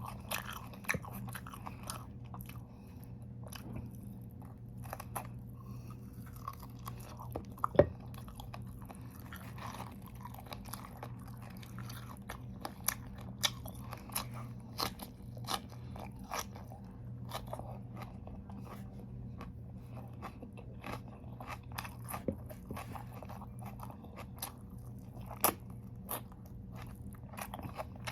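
Crunching and chewing of raw vegetables, with irregular sharp crunches as they are bitten and chewed. The loudest bites come about eight seconds in and again near twenty-five seconds, over a steady low hum.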